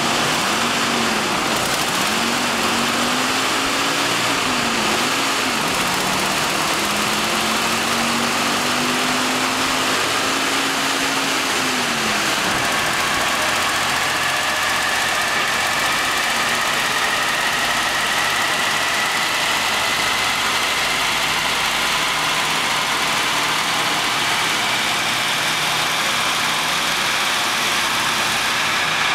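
1980 Chevrolet Camaro V6 running on a chassis dyno. Its engine speed rises and falls through the first half, then it makes one long, steady climb with a rising whine: a horsepower pull on the rollers.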